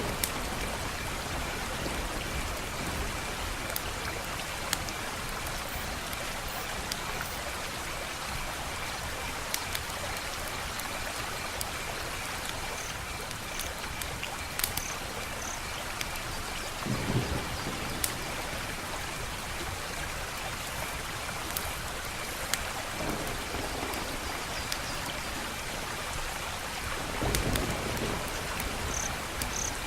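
Wood fire crackling steadily, a constant hiss scattered with sharp pops, with a short low rumble about halfway through and another near the end.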